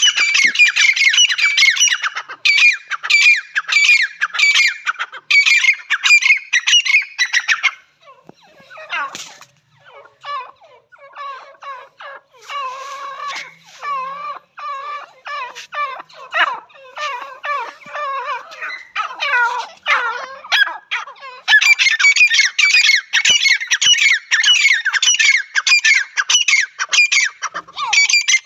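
Francolins (teetar) calling in fast, harsh runs of repeated notes. After about eight seconds the calls turn quieter and lower-pitched for a stretch, and the loud, high-pitched run comes back about two-thirds of the way through.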